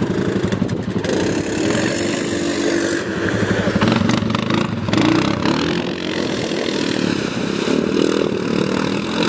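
ATV engine running and revving, its pitch rising and falling throughout.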